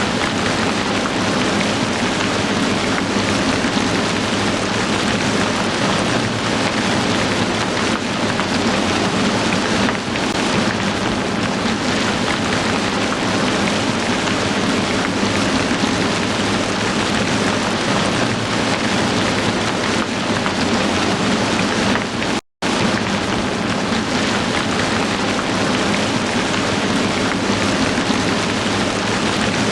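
Heavy rain falling steadily, a dense even hiss of drops, which cuts out completely for a split second about three-quarters of the way through.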